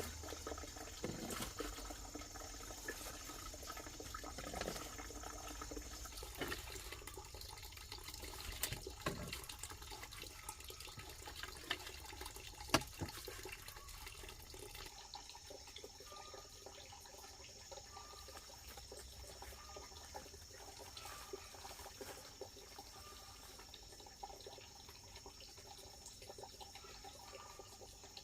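Faint running and splashing water, with a few light knocks scattered through it, one sharper knock about halfway.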